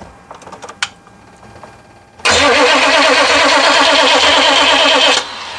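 Starter cranking the GMC's 6.5 L diesel engine for about three seconds with an even pulsing rhythm, then stopping suddenly without the engine catching. It is a crank-no-start, the fault being diagnosed.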